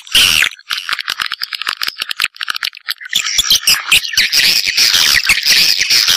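Swiftlet calls: a rapid, dense twittering chatter of many fast chirps and clicking trills. It is a lure call of the kind played to draw swiftlets to nesting houses. It breaks off briefly about half a second in and again a little past two seconds.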